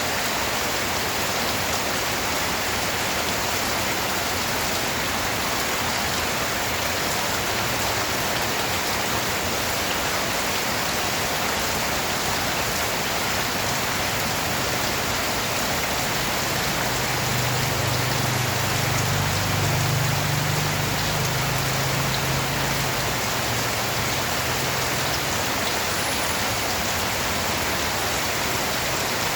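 Steady rain falling and pattering on surfaces. A low rumble swells in for several seconds around the middle, then fades.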